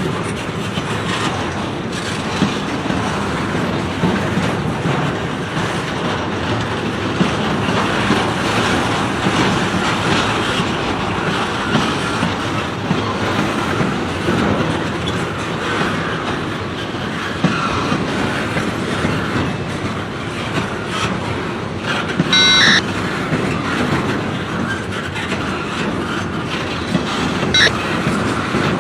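Freight train cars rolling past, wheels clacking over the rail joints with a steady rumble. Two short high-pitched wheel squeals, one about three-quarters of the way through and a briefer one near the end.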